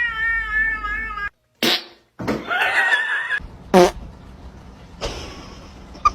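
Cat yowling: a long, wavering meow that breaks off abruptly about a second in, followed by shorter cries and a few brief sharp sounds.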